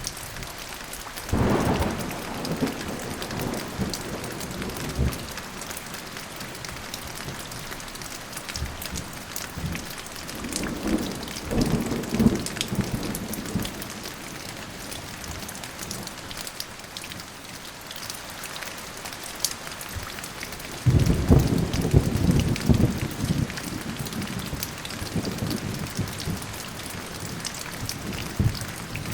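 Steady heavy rain falling, with rolls of thunder rumbling through it: one a second and a half in, another around ten seconds, and the loudest starting about twenty-one seconds in.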